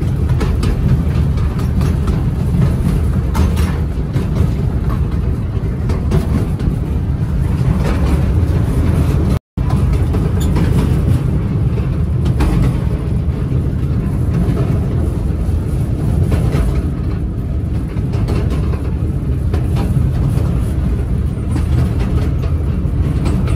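Amusement-park train running along its track, heard from aboard: a steady low rumble with faint clicks from the wheels on the rails. The sound cuts out for a moment about nine and a half seconds in.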